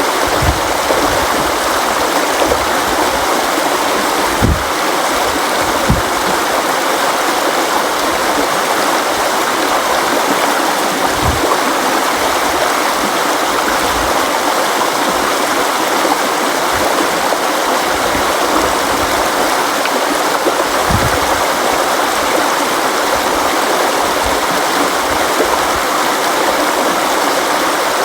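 River water flowing and rushing steadily over rocks, with an occasional brief low splash or gurgle.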